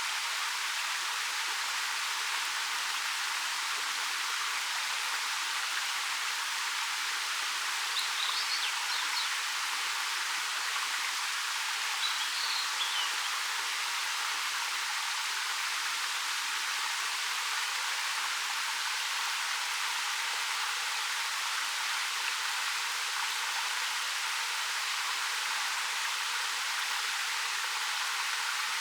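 Ariake Falls, a 13 m waterfall pouring over dark rock: a steady, bright rushing of falling water with no deep rumble. Twice in the middle, brief high bird chirps sound faintly over it.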